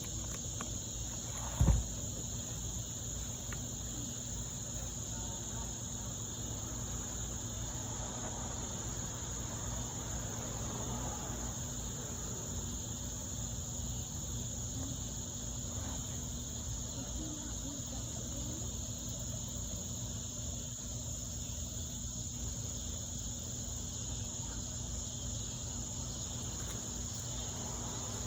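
A steady, high-pitched chorus of insects, like crickets, droning without a break. One sharp thump comes about a second and a half in.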